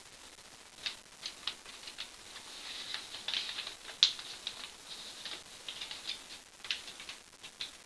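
Sheet of paper being handled, folded and creased by hand: irregular crisp rustles and crackles, the sharpest about four seconds in.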